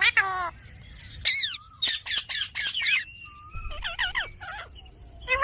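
Pet green parrot squawking: a run of short, harsh calls that slide in pitch, several in quick succession around the middle.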